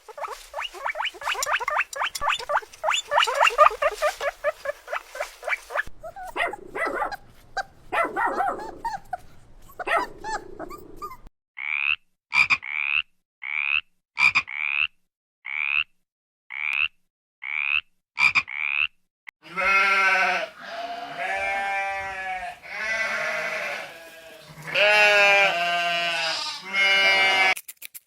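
A run of different animal calls, one after another. First a fast rattling series of pulses. Then about nine short, high, rising chirps. Then several long, pitched calls, each about a second.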